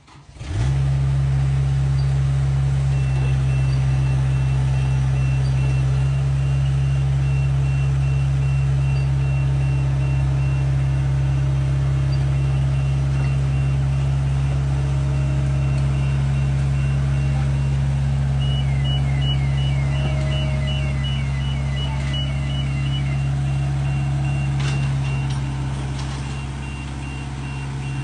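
Engine of an aerial work lift running steadily while its motion alarm beeps evenly as it is driven. Past the middle, a second, faster chirping alarm sounds briefly alongside the beeps.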